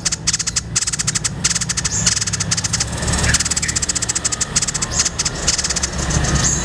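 White-breasted babbler (tepus dada putih) giving a fast, dry, high-pitched rattling chatter in long runs broken by short pauses, over a steady low hum.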